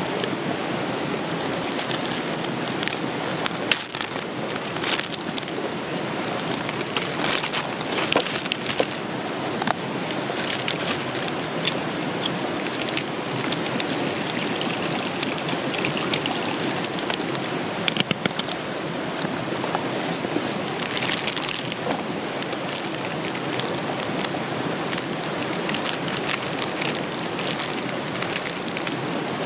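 Steady rushing water of a river, with scattered light clicks and taps over it.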